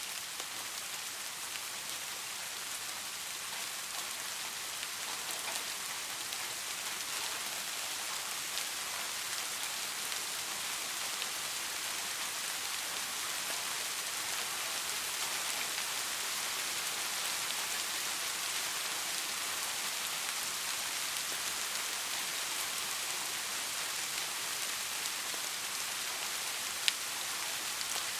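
Steady rain falling, an even hiss of many drops with scattered light ticks, and one sharper drop click shortly before the end.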